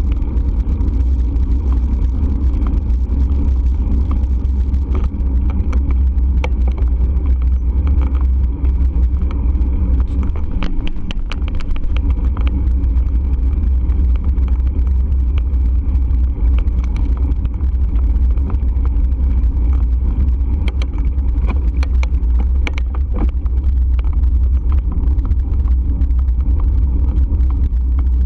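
Steady low rumble of wind and road noise on the microphone of a moving bike, with scattered small clicks and rattles.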